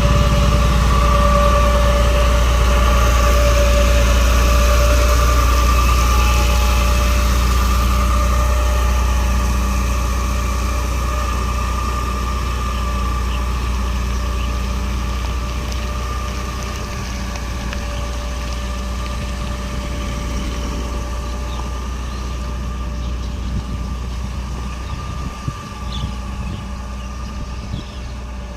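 Isuzu FTR 240 truck's diesel engine running steadily, a deep hum with a steady whine over it and a hiss. It slowly grows quieter, and the hiss thins near the end.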